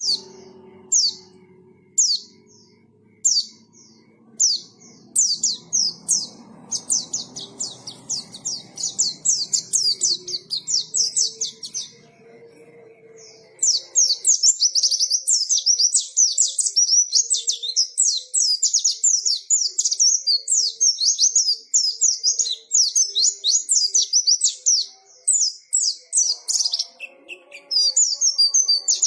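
Pleci (white-eye) singing in high, rapid chirps. It starts with a few spaced calls, builds into dense twittering, pauses briefly just past the middle, then keeps up a continuous fast song.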